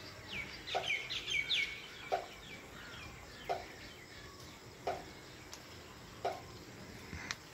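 Birds calling: a short low note repeats about every second and a half, and a quick run of high chirps comes in the first two seconds.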